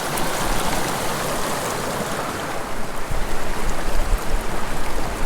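Small mountain creek rushing steadily, a constant water noise, with low uneven rumbling buffets joining it from about three seconds in.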